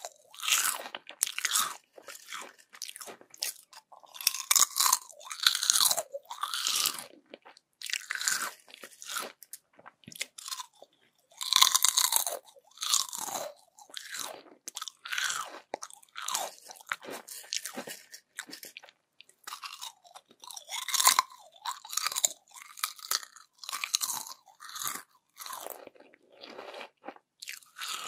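Crispy yam chips being bitten and chewed: a long run of short, sharp crunches, irregularly spaced with brief gaps between them.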